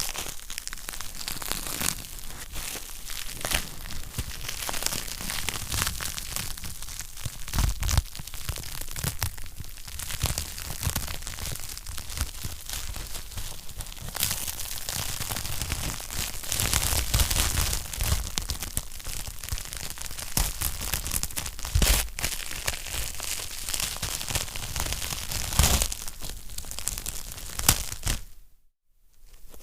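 Wood fire crackling, a dense run of small pops and snaps over a soft hiss, with a few louder pops. The sound cuts out for about half a second near the end.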